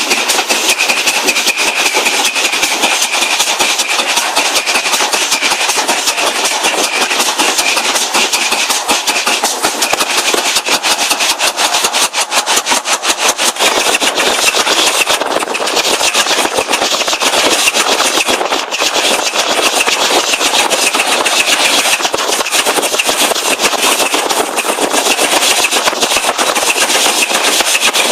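Steam train running along the line: a fast, even stream of beats with a steady hiss over them.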